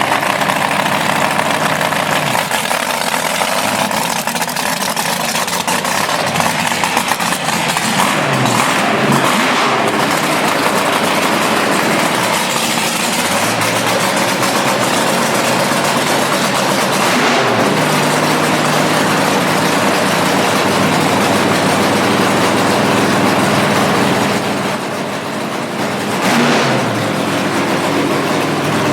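Front-engine dragster's engine running loud at a rough idle, with several throttle blips where the pitch rises and falls back, and a brief drop in level near the end.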